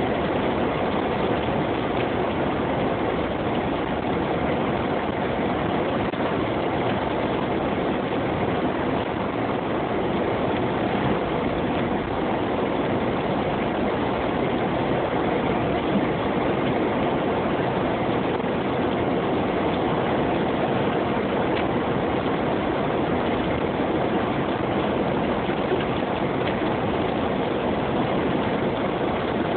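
Jeep driving through snow: a steady, unbroken run of engine and road noise.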